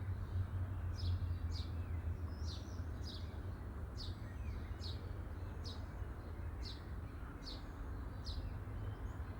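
A small bird chirping over and over, short high notes that drop in pitch, one every half second to a second, over a low steady hum.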